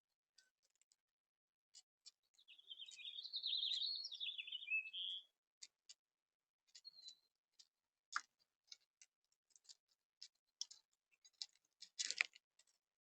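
A small songbird sings one warbling phrase about three seconds long that jumps up and down in pitch, surrounded by many short, sharp clicks and chips, with a louder cluster of clicks near the end.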